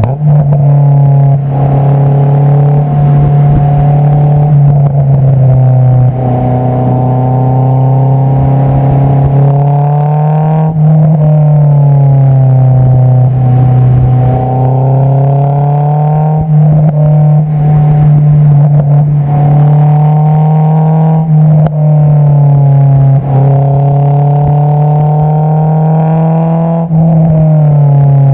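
Honda S2000's 2.2-litre inline-four heard through its Invidia Q300 exhaust while driving, the note loud and steady. Its pitch repeatedly climbs as the car accelerates, then falls back as it shifts or lifts, several times over.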